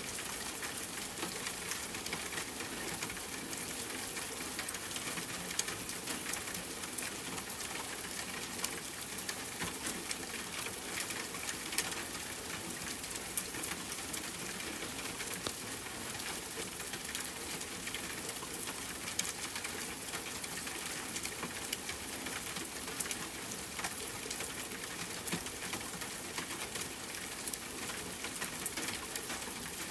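Steady rain falling, with many separate drops ticking sharply on a hard surface close by.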